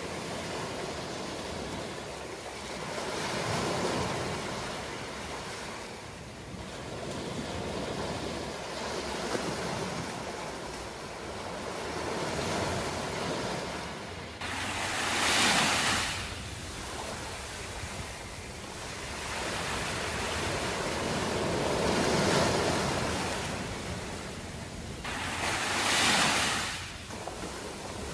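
Ocean surf: waves washing in one after another as a continuous rushing hiss that swells and fades every few seconds. Two sharper, louder breakers stand out, one about halfway through and one near the end.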